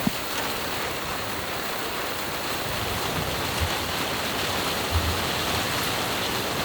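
Steady hiss of falling rain, with a short knock at the start and a soft thump about five seconds in.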